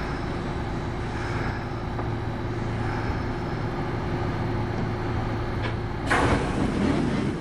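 Kintetsu 8810 series electric train running between stations, heard from inside the car: a steady rumble of wheels and motors with a low hum. About six seconds in, a louder burst of noise rises over it.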